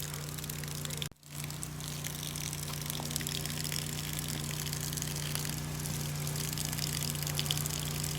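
Steady hiss of water spraying as a pet parrot is showered, with a constant low hum beneath it. The sound cuts out for a moment about a second in.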